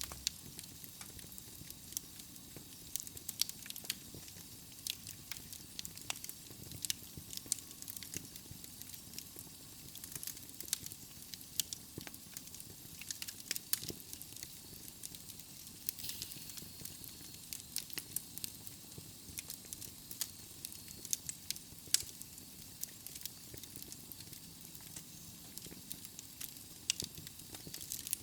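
Wood logs burning in a fireplace: a steady hiss of flame with frequent small, irregular crackles and pops.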